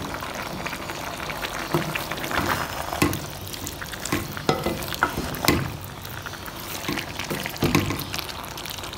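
Chicken sizzling in oil in a metal pot as it fries down with freshly added chopped tomatoes and green chillies. A wooden spatula stirring it makes irregular scrapes and knocks against the pot over a steady frying hiss.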